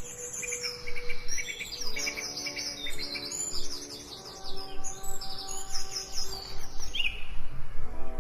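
Several songbirds chirping and trilling in quick, high notes, over soft background music of held chords.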